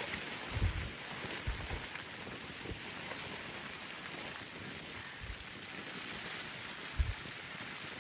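Steady hiss of blizzard wind and blowing snow, with several short low thumps of gusts buffeting the microphone.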